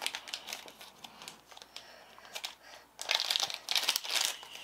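Plastic wrapper crinkling and crackling as a small toy package is handled and torn open, getting busier and louder about three seconds in.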